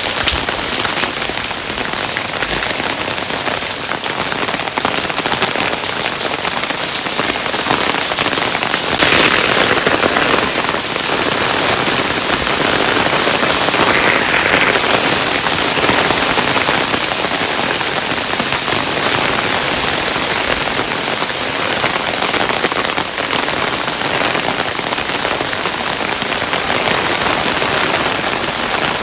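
Hailstones falling steadily: a dense patter of many small impacts, swelling a little about nine and again about fourteen seconds in.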